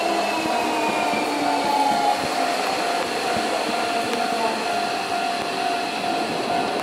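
Hankyu electric train running slowly past, wheels rumbling on the rails, with a whine that falls gradually in pitch over a steady high tone.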